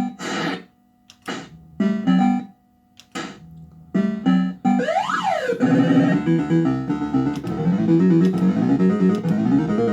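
A Bell-Fruit Cash Explosion fruit machine plays its electronic sound-chip effects. Short bleeping tune fragments come in bursts with gaps between them. About five seconds in there is a quick sweep up and back down in pitch, and after that a fast, continuous chiptune melody plays.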